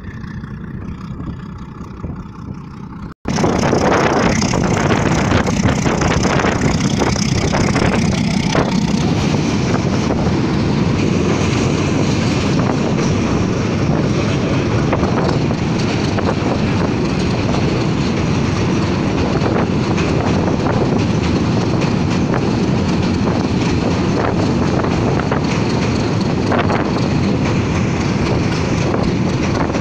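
Moving passenger train heard from its roof: wind rushing over the microphone over the rumble of the wheels on the rails. It is quieter for about the first three seconds, then after a brief dropout it jumps to a loud, steady rush.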